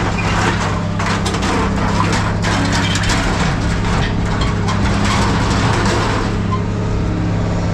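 Scrap metal clattering and crunching, with many irregular impacts, over the steady hum of a running engine.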